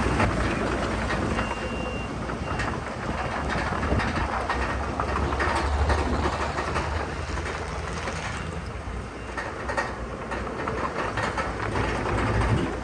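Crawler bulldozer working: a steady diesel rumble with continual clanking and rattling, as of steel tracks running over rock fill.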